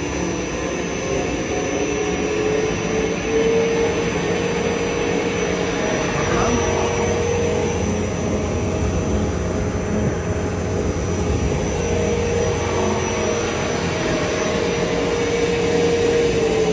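300-litre double sigma-blade kneader mixer running at full speed in the forward direction, its Siemens motor and hard-tooth-face gear reducer giving a steady drone. A steady whine strengthens about three and a half seconds in.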